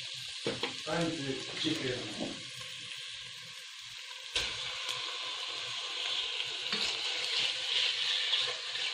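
Sliced onions and garlic sizzling in hot oil in a pot. About four seconds in, raw chicken pieces go in and the sizzling jumps louder, then a spatula scrapes as the chicken is stirred.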